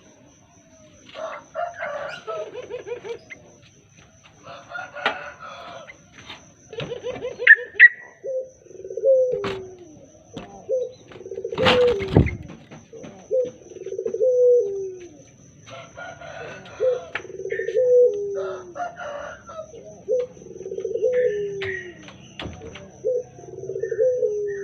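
Bird calls from a lure recording for the yellow-vented bulbul: short bursts of fast, bubbly chatter, joined from about a third of the way in by a lower falling call repeated about once a second.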